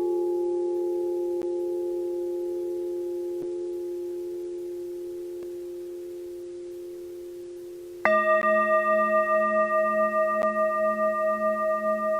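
Singing bowl ringing and slowly fading, then a second bowl struck about eight seconds in, ringing louder at a different pitch with a wavering, pulsing tone.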